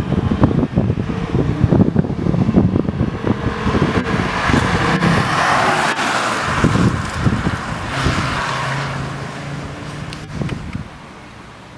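Modified Volkswagen Golf Mk4 V5's 2.3-litre five-cylinder engine and aftermarket exhaust driving past. The engine rumble and tyre noise swell to a peak about halfway through, then the engine note carries on and fades away near the end.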